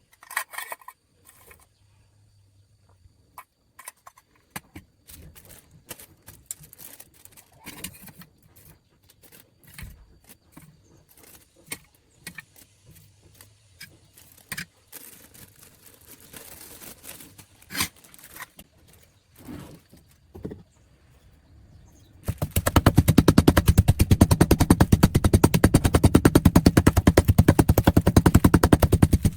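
Scattered clicks and knocks of workshop handling, then about three-quarters of the way through a loud, very fast mechanical rattle of rapid, evenly repeated impacts starts abruptly and keeps going.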